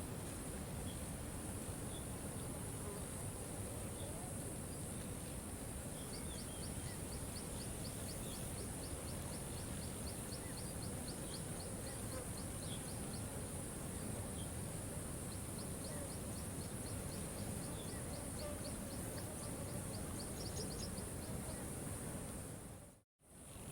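Steady hiss of rain with a constant high insect drone, and a fast, high clicking trill running through the middle. The sound cuts out briefly near the end.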